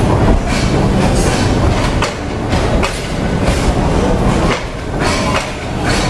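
Passenger coaches of an arriving train rolling past on the platform line: a steady loud rumble of wheels on rail, broken by repeated clacks as the wheels cross rail joints.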